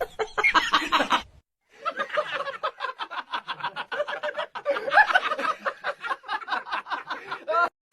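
Person laughing in quick, repeated breathy pulses, with a short break about a second and a half in.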